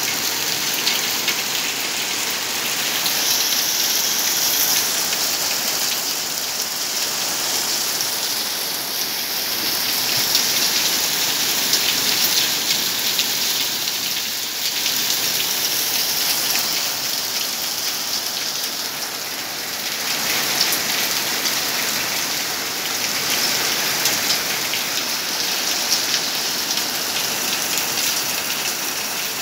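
Heavy rain falling in a steady downpour: a dense hiss with many close drops ticking on hard surfaces.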